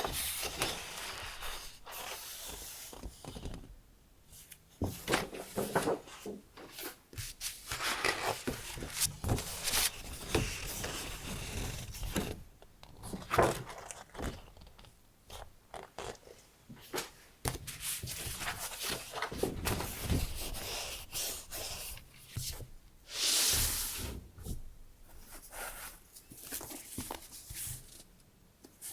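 Hands handling sheets of decorative paper: irregular rustling, sliding and light taps, with one louder swish of paper later on.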